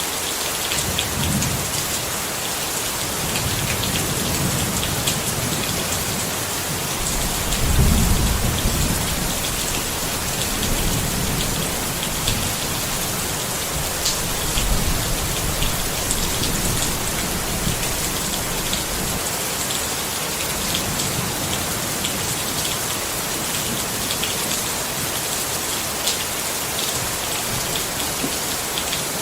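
Steady rain pattering on a tent, with low rolling rumbles of thunder swelling several times and loudest about eight seconds in.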